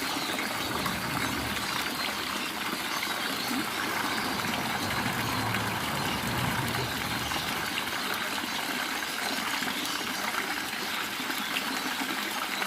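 Water running and splashing steadily into a garden fish pond, an even rushing trickle with no change throughout.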